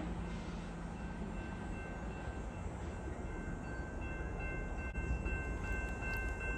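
GO Transit commuter train running by, a steady low rumble with a thin high ringing tone that grows stronger from about four seconds in.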